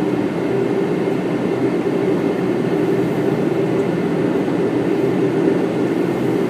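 Steady flight-deck noise of a Boeing 777 in flight: a constant rumble and hiss with a faint steady hum, unchanging throughout.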